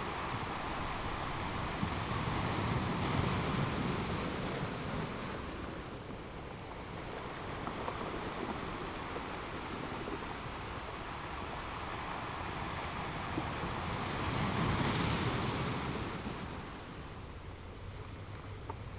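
Ocean surf: a steady wash of breaking waves that swells louder twice, around three seconds in and again around fifteen seconds in.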